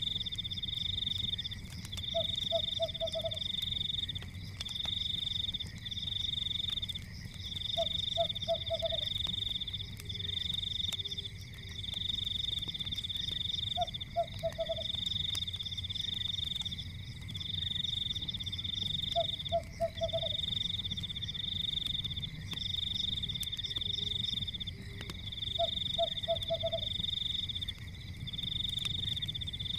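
Night chorus of frogs and insects: a continuous high, pulsing trill comes in bouts of a second or two with brief gaps, and a short low croak of four or five quick pulses repeats about every six seconds. Underneath are a low steady rumble and faint crackles from a fireplace.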